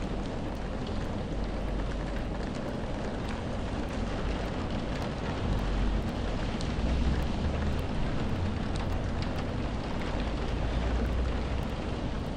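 Steady rainfall with scattered drop ticks and a low rumble that swells twice, about six seconds in and again near ten seconds.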